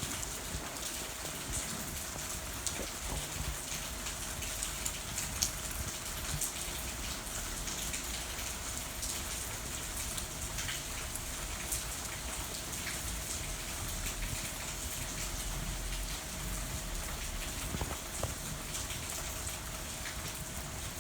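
Steady rain falling, an even hiss scattered with the small sharp ticks of individual drops.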